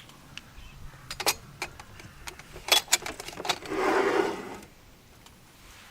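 Small objects being handled: a run of short sharp clicks and knocks, then about a second of rustling near the end.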